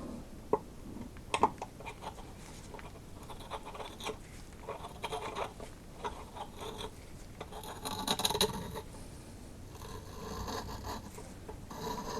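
Hand tap cutting threads in an aluminum valve cover's bolt hole: intermittent scratchy scraping and small clicks as the tap is turned and backed off, with a brief hiss about eight seconds in.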